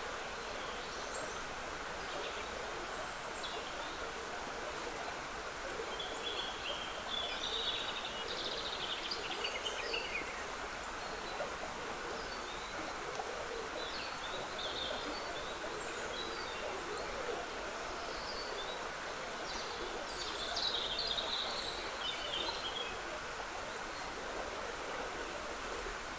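Steady trickle of a woodland stream, with songbirds singing in short bursts about six to ten seconds in and again around twenty seconds in.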